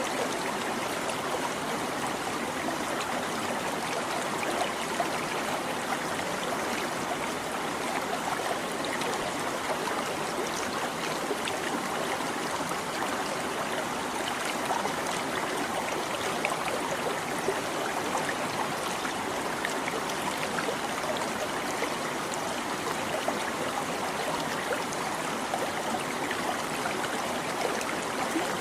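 A shallow stream babbling and trickling steadily over stones.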